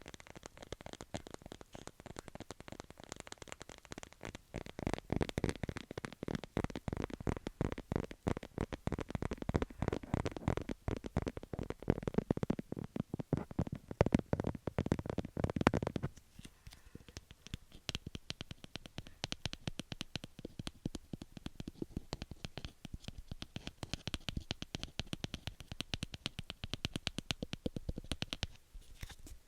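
Rapid tapping and scratching on a book, fast and dense. It is fuller and louder at first, then turns suddenly lighter and thinner about halfway through.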